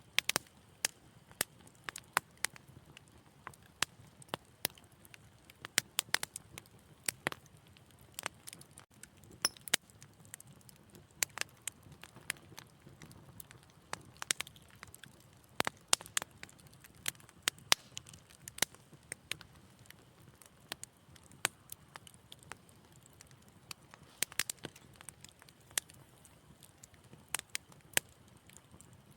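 Wood fire crackling in a fireplace: irregular sharp pops and snaps over the soft low rush of the flames.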